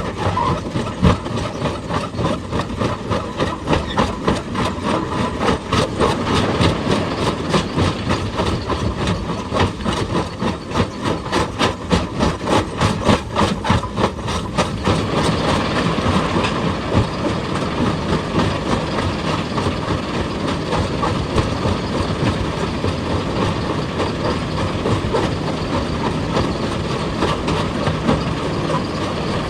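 Excavator working: a rapid, continuous run of hard knocks for about the first half, then a steadier mechanical noise.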